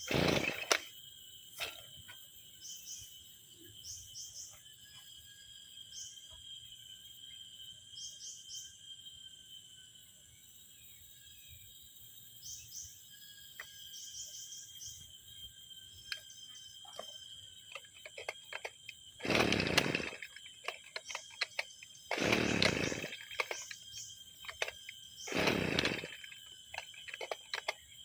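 Two-stroke brushcutter engine being pull-started, four short bursts, one at the start and three a few seconds apart near the end, each dying away without the engine catching: hard starting after six months unused. Between the pulls, steady high insect-like buzzing and short chirps.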